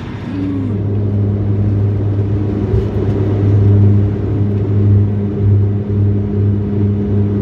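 Steady engine drone of a vehicle under way: a low hum with a few evenly spaced overtones, getting louder during the first second and then holding at an even pitch with slight wavering in level.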